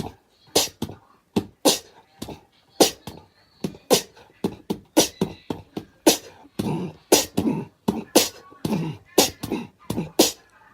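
A quick, uneven series of sharp clicking sounds, about two or three a second.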